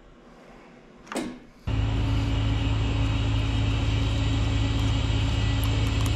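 A machine's motor running with a steady, loud low hum, switching on suddenly about a second and a half in, just after a short falling whine.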